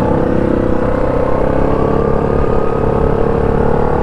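ATV engine running steadily while riding, its pitch holding nearly even with a slight rise partway through.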